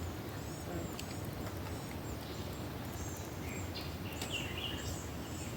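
Small birds chirping: many short, high calls and little sweeps, with a busier cluster of calls about four seconds in, over a steady low rushing background noise.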